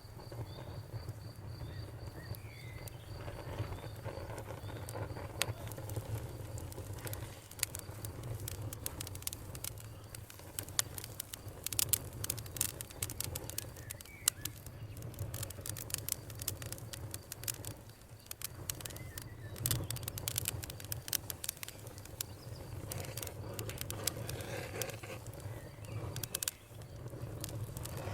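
Wood fire crackling, with irregular sharp pops over a low steady rumble; the pops come thicker from about a third of the way in.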